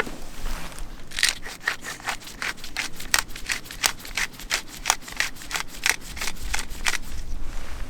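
Hand saw cutting through wood with quick, regular strokes, about three a second.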